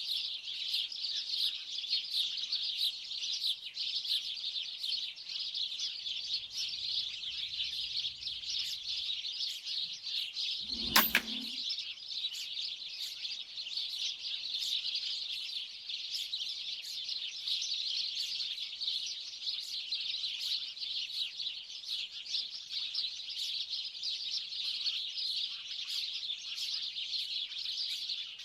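Dense, continuous chirping of a large flock of small birds. About 11 seconds in there is a single sharp crack of an air rifle shot, and the chirping carries on.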